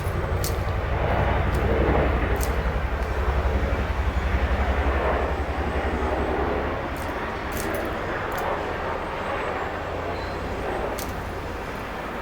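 A passing engine rumbling with a fast low throb, swelling over the first few seconds and easing off after about seven seconds.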